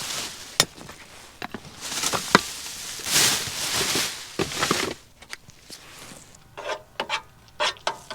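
Handling noises: rubbing and scraping swells with several sharp clicks and knocks, and a quick run of clicks near the end.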